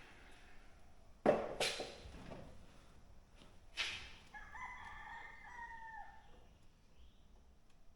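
A few sharp knocks, then a rooster crows once: a drawn-out call of about two seconds, starting a little past the middle.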